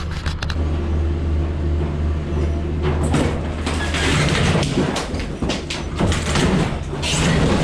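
Mini excavator's diesel engine running steadily, then from about three seconds in, a continuous crashing and cracking of wood and debris as the wall is broken in.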